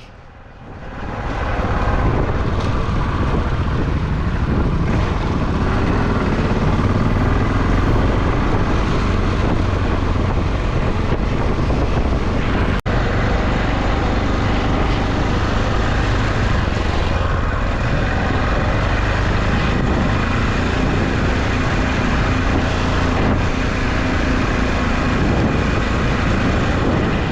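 Off-road dirt bike engine running under riding, steady and loud, mixed with wind noise on the microphone, with a brief break about halfway through.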